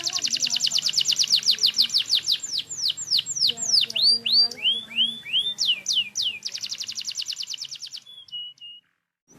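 Domestic canary singing: fast rolling trills of rapid downward-swept notes, broken by slower sweeping and arched phrases, with a second fast trill about six seconds in. The song ends in a few short notes and stops shortly before the end.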